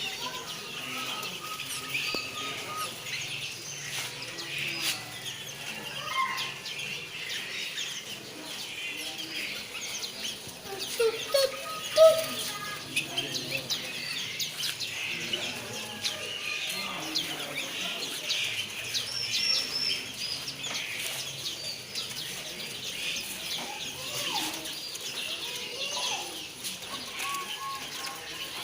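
Many caged birds chirping and calling at once, a dense, continuous chorus of short high chirps with a few lower calls mixed in and one louder call about twelve seconds in.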